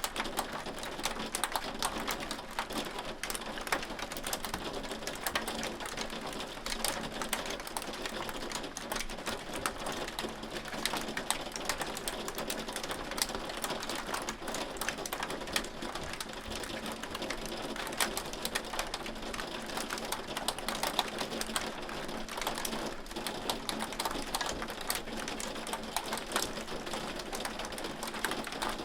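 Hail falling steadily: a dense, even patter of sharp clicks as hailstones strike hard surfaces.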